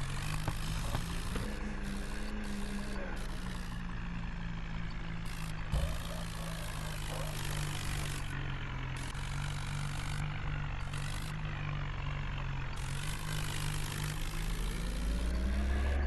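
Swaraj tractor's diesel engine running steadily, revving up near the end.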